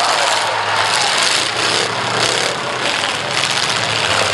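Demolition derby car engine running loud and rough, its noise dipping and surging several times.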